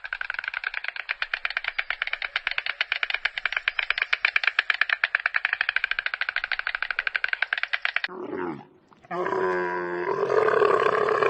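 Animal calls: a long, rapid, evenly pulsing rattle-like call lasting about eight seconds, then after a short break a brief call and a longer, fuller call near the end.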